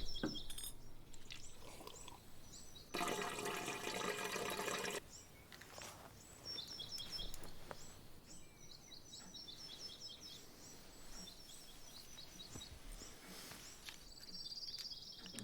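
Faint ambience with small birds chirping in quick repeated calls, and a two-second burst of rushing noise a few seconds in.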